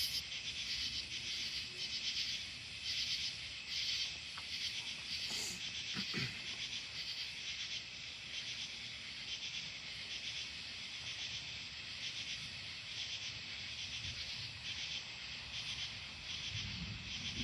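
Chorus of night-calling insects: a steady, pulsing high-pitched trill. A faint low rumble comes in near the end.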